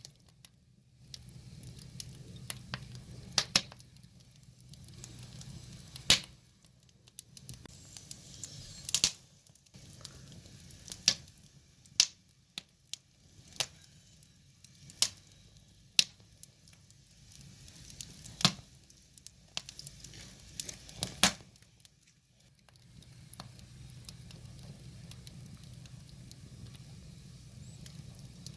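Wood fire burning, with a soft hiss and sharp, irregular crackles and pops from the burning logs.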